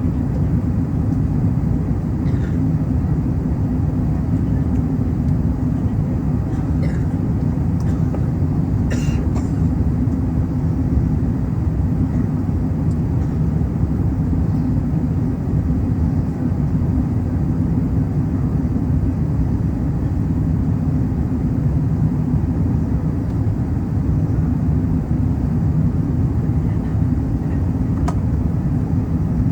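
Steady low rumble of distant aircraft engine noise at an airport, with a few faint short sounds about two, seven and nine seconds in and again near the end.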